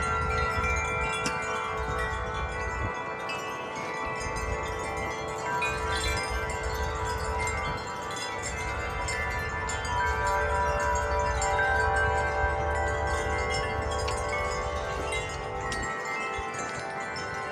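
Several tuned wind chimes ringing together in a gust of wind, many overlapping notes sustaining and being struck again and again, with a low rumble underneath at times.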